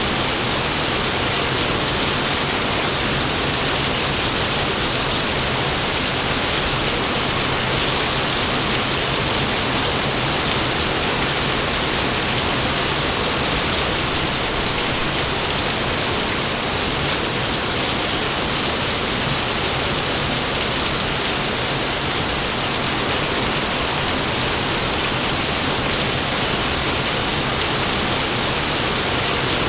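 Heavy rain pouring steadily, an even hiss of downpour with no thunder or other sudden sound breaking through.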